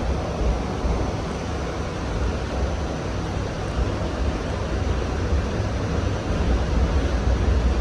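Steady low rumble and running noise inside a Hong Kong Light Rail Phase III car as it travels along the track, heavy in the bass and even throughout.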